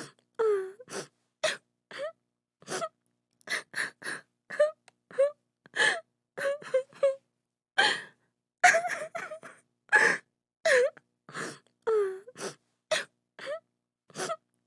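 A woman crying in short, broken sobs and gasping breaths, about two a second, some sliding down or up in pitch.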